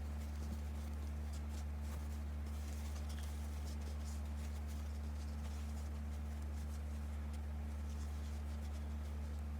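Steady low electrical hum under faint, scattered light scratches and ticks of hands working felt.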